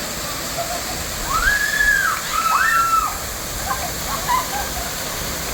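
Steady rush of falling water, with a bird giving two drawn-out arching whistles between about one and three seconds in, then a few short chirps.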